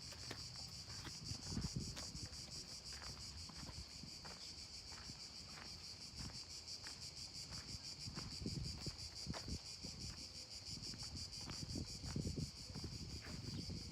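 Steady, high insect chorus buzzing. Footsteps come about every half second, and there is low wind rumble on the microphone.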